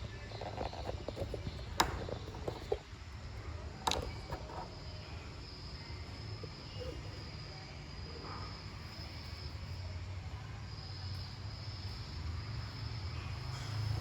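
Outdoor background with a steady high-pitched insect chirring and a low rumble, broken by two sharp clicks about two seconds apart in the first four seconds.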